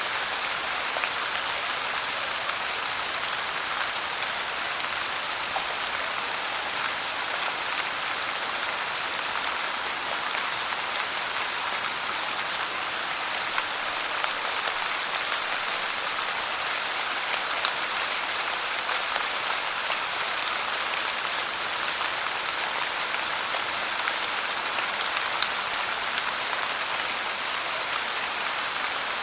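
Steady rain falling: an even hiss, with small ticks of single drops scattered through it.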